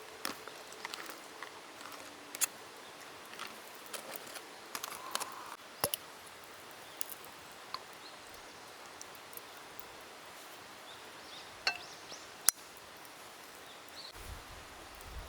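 Scattered sharp clicks and light knocks of camp cooking gear being handled during food preparation, the sharpest about twelve seconds in, over a steady outdoor background hiss.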